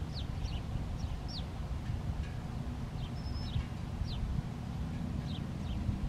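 Small birds chirping: short, high, downward-sliding chirps a few times a second, over a low steady rumble.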